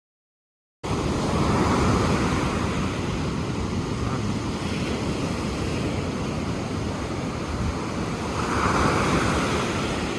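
Ocean waves washing onto the shore, with wind rumbling on the microphone. The sound cuts in abruptly about a second in, and the surf swells twice.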